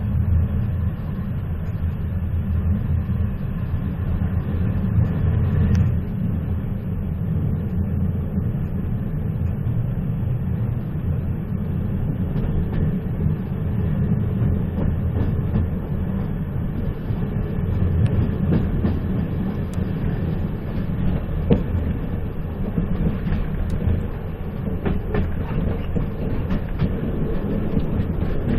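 A moving train running steadily: a continuous low rumble, with the wheels clicking over rail joints, more distinct in the second half.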